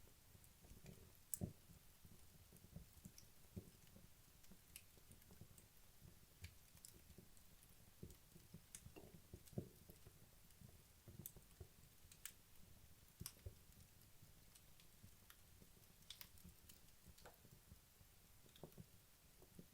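Wood logs burning in a fireplace, giving faint, irregular crackles and small pops a few times a second over a soft low rumble.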